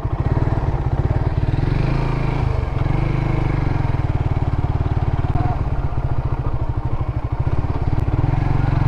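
Motorcycle engine running as the bike is ridden at low speed, with a steady, rapid exhaust pulse. The engine speed dips briefly about two to three seconds in, then picks up again.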